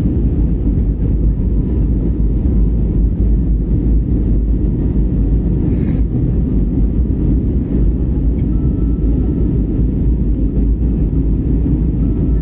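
Passenger airliner's engines and airflow during takeoff, a steady, loud low rumble.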